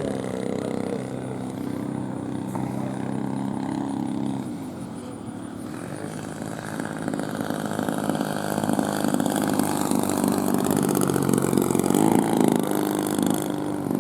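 GP123 gas engine of a 140-inch Bushmaster RC airplane running with its propeller. The engine eases back and quietens about four to six seconds in, then is throttled up again and runs louder toward the end.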